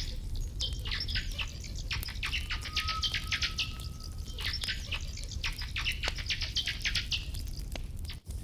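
Birds chirping in rapid clusters of short falling notes, over the scattered snaps and low rumble of a crackling campfire. The sound drops out briefly near the end.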